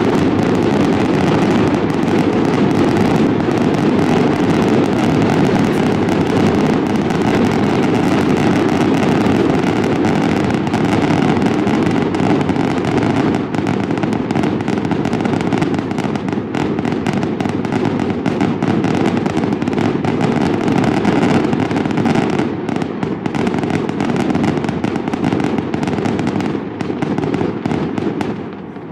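Fireworks going off in a dense, unbroken crackling barrage that dies down just before the end.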